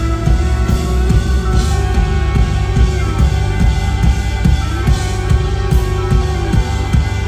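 A rock band playing live through a PA: an instrumental passage with held electric guitar notes over steady drums and bass, and a cymbal crash every second or two.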